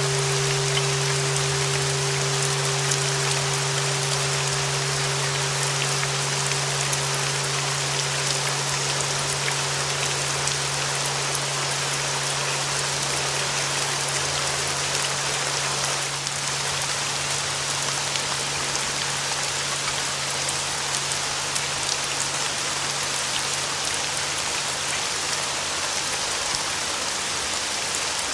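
Steady rain with a ringing bell tone near 396 Hz and a lower hum beneath it, both slowly dying away. The higher tone is gone about halfway through and the lower one near the end, leaving only the rain.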